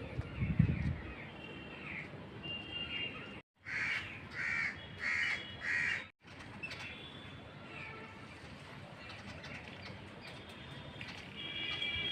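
A crow cawing four times in quick succession, about a call every half second, with smaller birds chirping around it. A low thump near the start.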